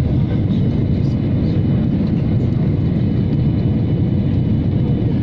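Transavia Boeing 737 on its landing approach, its engines giving a loud, steady low rumble with faint steady whine tones above it.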